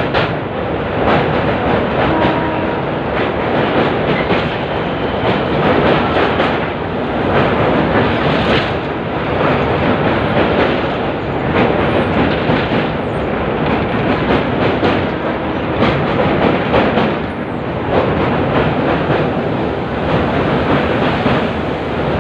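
A train running at speed: a steady loud rumble with repeated clattering knocks of the wheels over rail joints.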